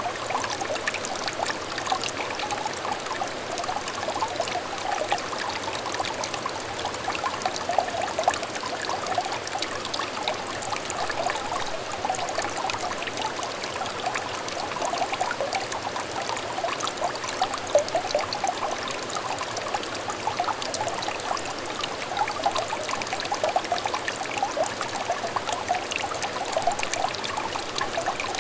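Small clear stream trickling and burbling steadily, with many small splashes of water spilling over stones.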